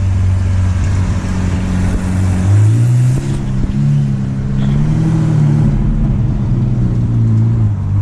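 Sports car engine running under way, its note stepping up about two and a half seconds in as it revs, wavering, then dropping back near the end, over road and wind noise.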